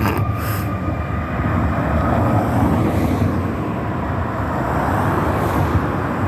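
Fire engine driving on: a steady low engine rumble with road noise. A steady high tone carried over from before fades out about a second in.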